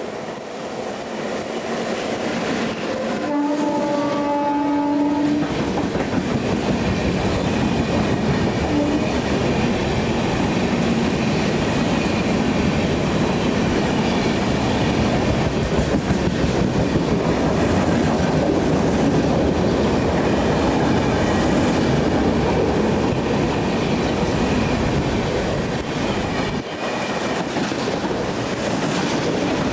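Express train passing at speed, its horn sounding for about two seconds a few seconds in. The rising rumble gives way to a steady roar and wheel clatter from the coaches going by.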